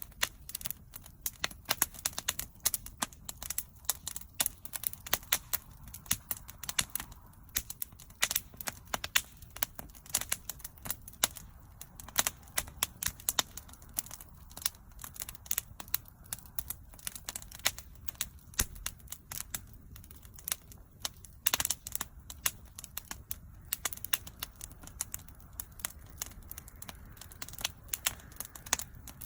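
Wood fire burning: a continuous stream of irregular crackles and pops over a low steady rumble of the flames.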